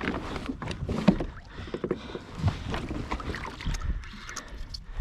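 Water slapping and sloshing against a kayak's hull, with scattered knocks and clicks.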